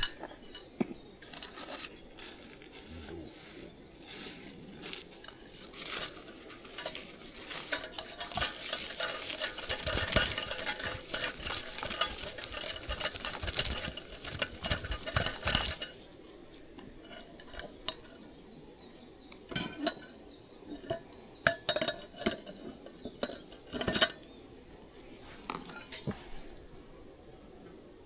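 Cookware and utensils clattering and clinking as they are handled. There is a dense run of quick clatter for about ten seconds, which then thins to scattered single clinks.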